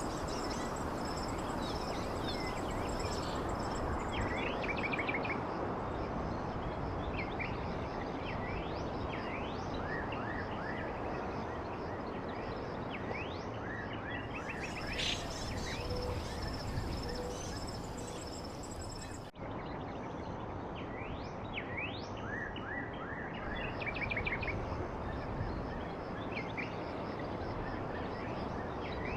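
Small songbirds chirping and trilling in quick upward and downward notes over a steady background hiss, with a thin high steady insect-like drone in parts. About nineteen seconds in the sound drops out for an instant, like a splice in the recording.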